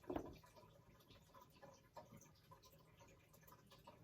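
Near silence: room tone, with one soft brief sound just at the start and a few faint ticks.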